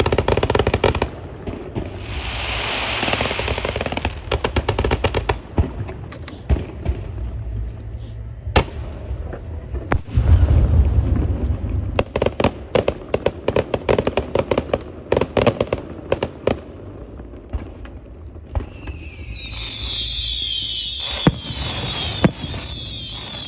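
Fireworks going off: rapid sharp cracks and bangs, with a hissing burst about two seconds in and a dense run of crackling a little past halfway. Near the end come several whistling shots that fall in pitch.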